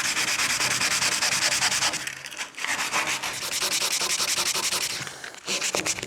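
Sandpaper rubbed by hand in quick back-and-forth strokes over the painted hull of a canoe, sanding down paint runs. The rasping pauses briefly twice.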